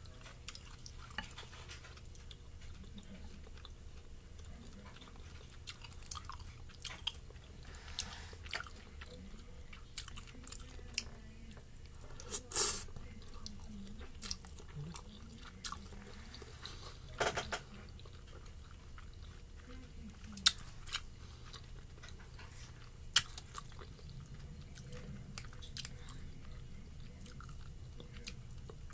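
Close-up eating sounds: chewing spicy noodles with scattered wet mouth clicks and smacks. A few louder mouth noises stand out, the loudest about halfway through.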